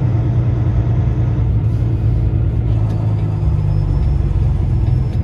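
Peterbilt semi truck's diesel engine and road noise heard from inside the cab while driving, a steady low rumble.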